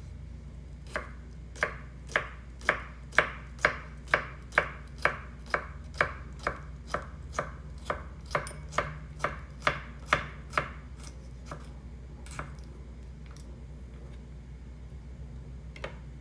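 A knife chopping food on a cutting board in a steady rhythm of about two strokes a second, some twenty strokes, then stopping about ten seconds in, followed by a few lone taps.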